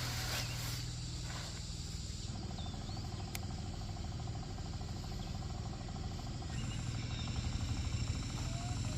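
Rural outdoor ambience: insects trilling in rapid even pulses, starting a couple of seconds in, with a few short bird chirps over a steady low hum.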